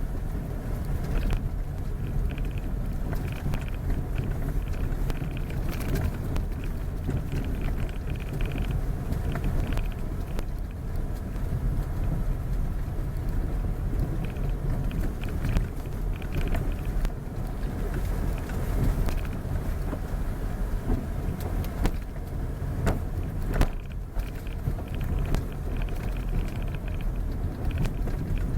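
Steady low rumble of a vehicle on the move, engine and road noise, with scattered small clicks and knocks.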